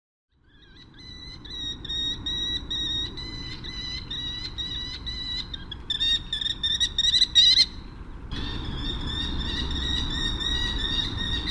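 A bird of prey calling: a rapid series of short, high, piping notes. The calls grow louder and more excited about six seconds in, break off briefly about eight seconds in, then resume over a low rumbling background.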